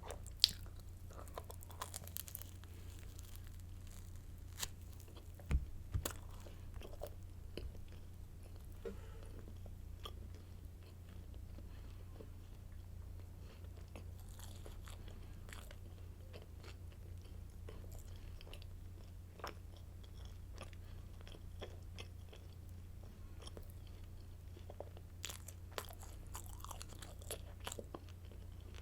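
Crunchy garlic baguette sticks being bitten and chewed close to the microphone: irregular crisp crunches and crackles, with a few sharper bites in the first six seconds. A steady low hum runs underneath.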